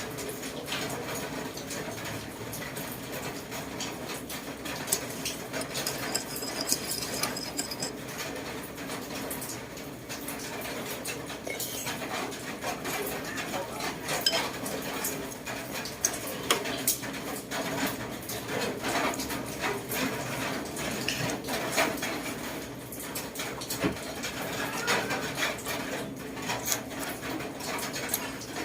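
Kitchen dishes and utensils clinking and clattering in many scattered small knocks over a steady background.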